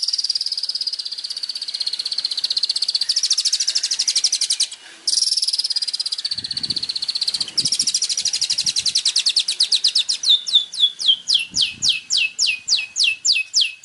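Songbird song played as a bird-training master track: a long, fast, buzzing trill that breaks off abruptly twice. About ten seconds in, it changes to a run of high notes, each sweeping downward, about three a second.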